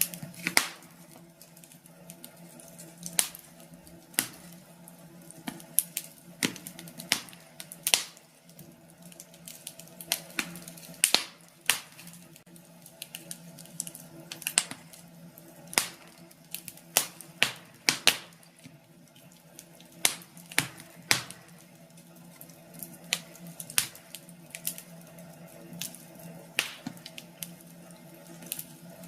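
Wood fire crackling in a fireplace: irregular sharp pops and snaps, a few every second, over a low steady background.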